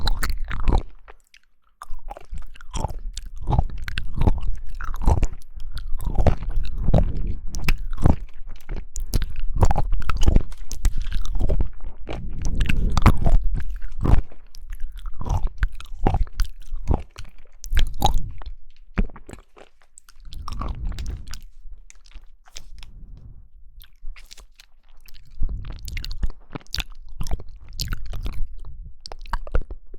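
Jelly being bitten and chewed close to the microphone: a dense run of sharp clicks and smacks with a few short pauses, quieter for a few seconds past the middle.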